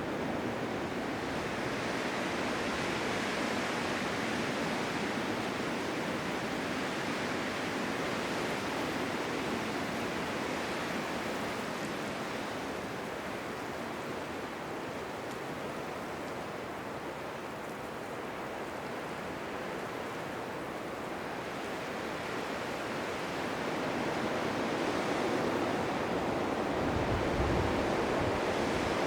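Blizzard wind blowing as a steady rushing noise that eases a little midway and builds again, with a brief low rumble near the end.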